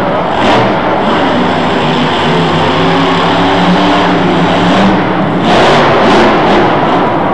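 Monster truck engine running loud under hard throttle, a steady pitched drone in the middle and surging revs near the start and again about five and a half seconds in.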